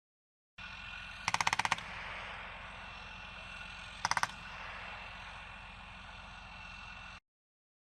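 Two short bursts of machine-gun fire, the first about eight rounds, the second about four, over a steady low engine rumble.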